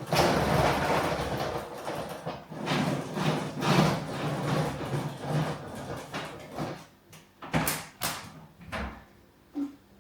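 Coffee beans being ground: a rough, fluctuating grinding noise with a low pulse about twice a second that thins out after about seven seconds, followed by a few separate sharp clicks and knocks.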